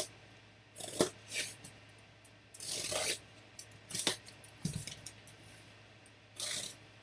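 Handling of trading-card box packaging: rubbing, a longer tear about halfway through, and a few light knocks with a dull thud.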